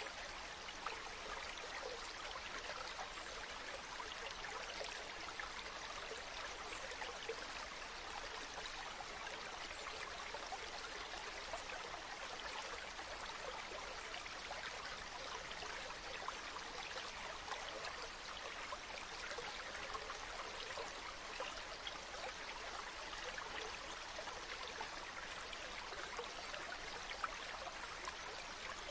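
Water running steadily in a small stream, an even trickling with no pauses.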